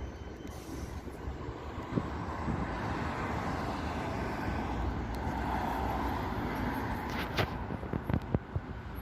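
Street traffic, with a vehicle passing close by: a steady rushing noise that swells to its loudest about six seconds in and then eases. A few sharp clicks come near the end.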